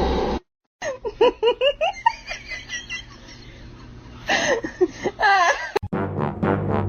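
A person laughing and giggling in quick rising bursts, twice, after a brief gap. Music starts in the last second.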